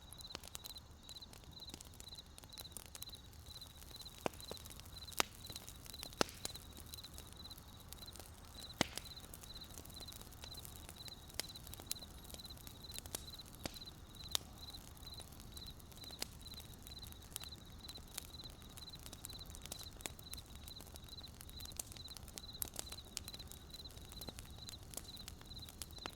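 Wood fire crackling with sharp pops, a few louder snaps in the first third, over a steady, evenly pulsed cricket chirping.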